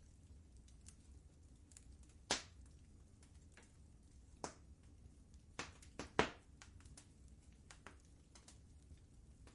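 Wood fire crackling in a fireplace: scattered, irregular pops and snaps over a low steady rumble, with the loudest pop about six seconds in.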